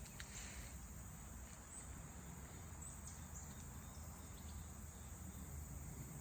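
Faint outdoor nature ambience: a steady high-pitched chirring of insects, typical of crickets, over a low rumble, with a few tiny high chirps a couple of seconds in.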